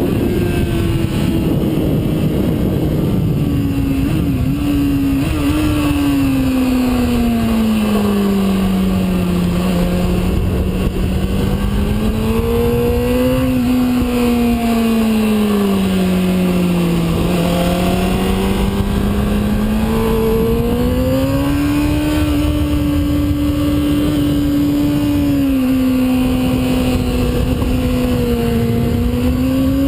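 Sport bike engine running hard on a race track, its pitch falling and climbing over several seconds at a time as the rider rolls off and back on the throttle, with a few quick dips about four to five seconds in and a rise near the end. A heavy rush of wind noise runs under it.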